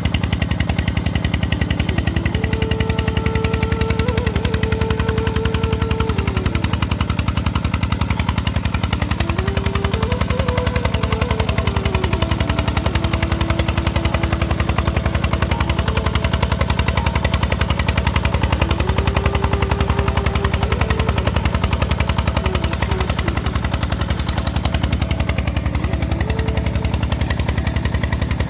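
Petter diesel engine driving a tubewell pump, running steadily with a fast, even knock from each firing stroke. A higher tone that steps up and down comes and goes over the engine.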